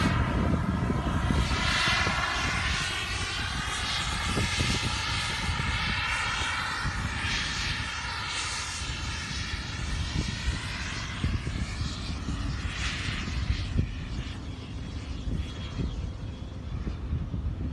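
Freewing F-22 RC jet's electric ducted fans whining as it flies past, the whine sweeping in pitch and fading as it moves away. Wind buffets the microphone throughout.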